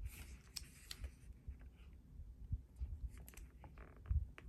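Faint scattered clicks and taps with a few soft low thumps: hands handling paper stickers and pressing them onto a planner page.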